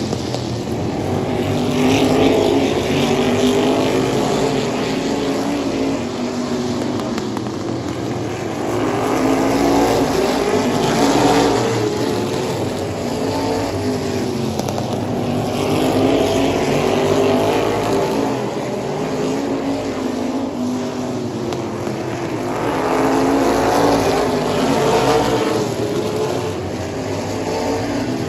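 Racing car engines running hard at speed, their pitch wavering as they rev. The sound swells and fades over and over as the cars come round.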